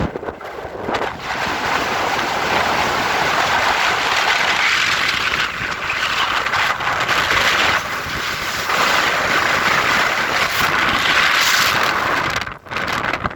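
Strong wind blowing in gusts: a loud rushing hiss that swells and eases every second or two, dropping away suddenly near the end.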